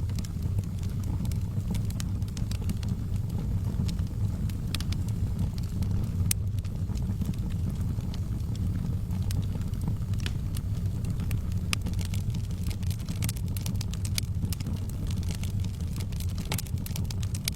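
Wood fire burning in a fireplace: a steady low rumble of the flames with scattered sharp crackles and pops, which come more often near the end.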